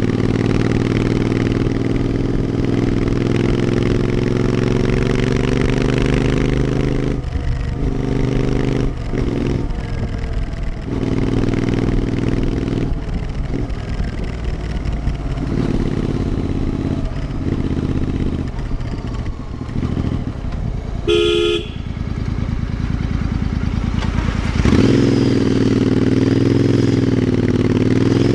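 Royal Enfield Interceptor 650's parallel-twin engine through a Powerage aftermarket exhaust, riding along with the throttle repeatedly rolled off and back on. A vehicle horn sounds briefly about 21 seconds in, and near the end the engine note gets louder and wavers up and down.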